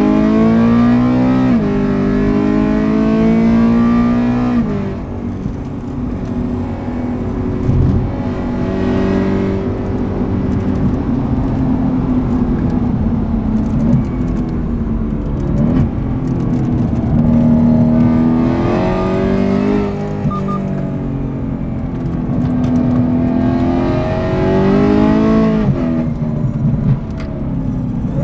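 BMW E92 M3's 4.0-litre V8 through a full IPE Innotech exhaust, heard from onboard: loud and revving hard under acceleration, its pitch climbing and dropping sharply at each upshift. In between it holds lower, steadier revs before pulling up again.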